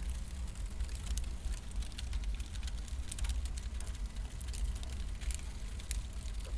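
Burning firewood crackling, with sharp irregular pops several times a second, over a steady low rumble.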